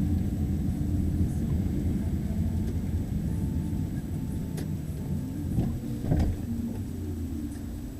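Car engine and road rumble, steady and low, with a few short knocks about halfway through.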